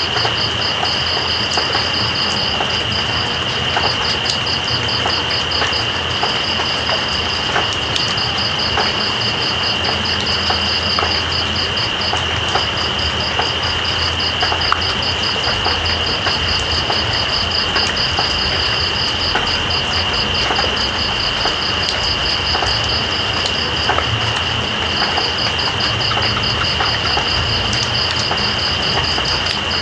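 Night insects calling over steady rain: one insect holds a continuous high trill, while a second chirps in rapid pulsing runs broken by short gaps. Raindrops patter throughout, with a low steady rumble underneath.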